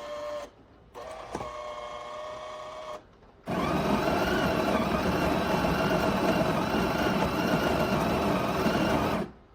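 Café Affetto automatic espresso machine starting a shot: two short motor hums, then its built-in bean grinder runs loud for about six seconds and cuts off suddenly.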